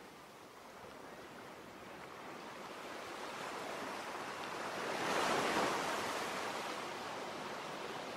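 Ocean waves: a wave's rush builds slowly, breaks about five seconds in, then washes back and fades.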